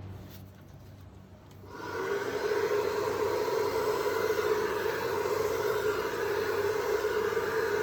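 Hair dryer switched on about two seconds in, then running steadily: a motor whine over the rush of blowing air.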